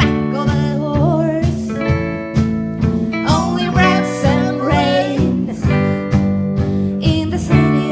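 Live band playing a song, with guitar and a beat, and a singing voice over the top.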